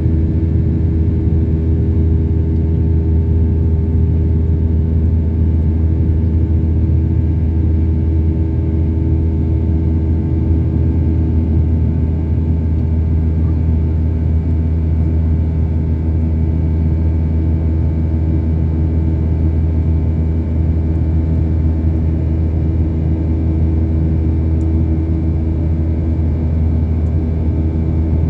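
Steady cabin drone inside a Boeing 737-800 with its CFM56 engines running: a loud low hum with a few steady tones above it, unchanging throughout.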